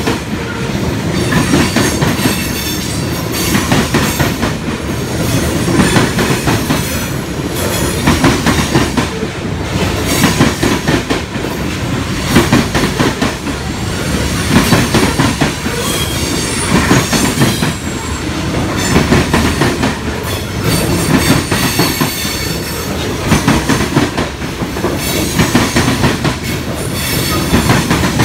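Covered hopper cars of a freight grain train rolling past at close range: steady wheel-on-rail noise with a rhythmic clatter of wheels over the rail joints, swelling about every two seconds as each car's trucks go by.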